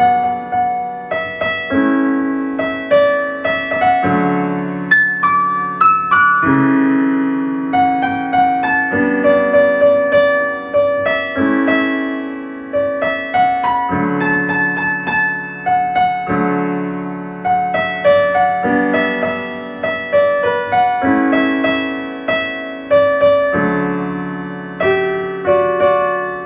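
Solo piano music: a gentle melody of struck notes over sustained low chords, played steadily, fading out just after the end.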